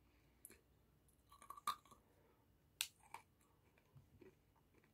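Faint crunching of kompeito, a hard sugar candy, being chewed: a few scattered sharp crunches.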